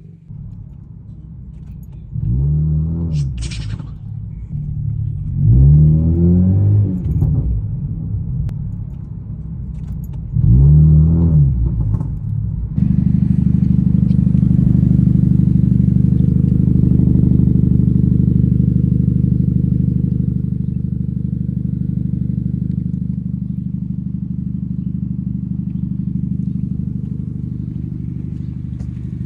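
The 2012 Honda Civic's 1.8-litre four-cylinder is revved three times through its exhaust, each a quick rise and fall in pitch. About thirteen seconds in, it jumps to a louder, steady engine drone that eases off slowly toward the end.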